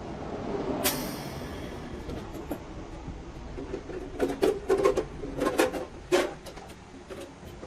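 Irregular knocks and clicks over a steady low background: one sharp knock about a second in, then a quick run of knocks between about four and six seconds in.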